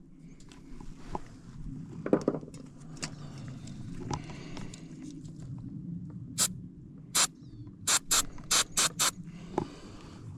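Ratchet wrench working the battery terminal bolts, with a few scattered clinks of metal, then a run of short, sharp ratcheting strokes in the second half.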